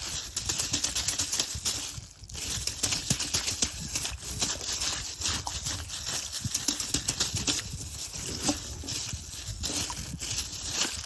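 Water slime in a plastic bag being squeezed and kneaded: a continuous run of wet squishes, small pops and crinkling plastic, easing briefly about two seconds in.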